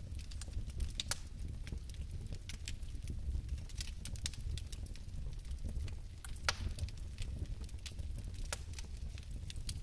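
Fire in a fireplace crackling: irregular sharp pops and ticks over a steady low rumble, with one louder pop about six and a half seconds in.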